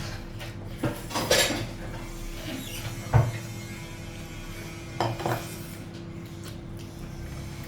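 Dishes and eating utensils clinking and scraping during a meal, in a handful of separate knocks, the sharpest about three seconds in. A steady low hum runs underneath.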